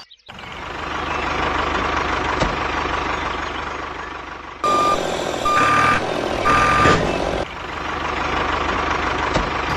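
A vehicle's reversing alarm beeps three times, about a second apart, in the middle, over a steady vehicle engine noise.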